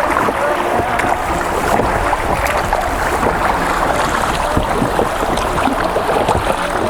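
Steady rush of river water running through a shallow riffle around a raft.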